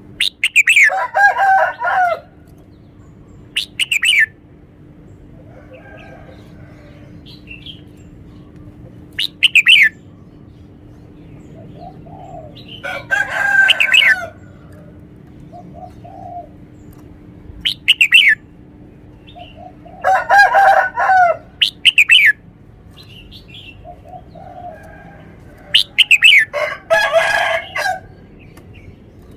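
Red-whiskered bulbul singing loud, bright song phrases of one to two seconds, about every six or seven seconds, with single quick down-slurred whistles in between.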